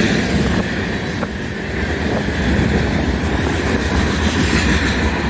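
Freight cars of a long CN mixed freight train rolling past, a steady rumble of steel wheels on the rails with a single click about a second in.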